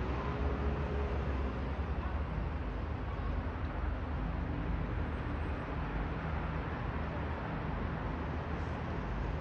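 Steady low rumble and hiss of outdoor background noise, even throughout with no distinct events.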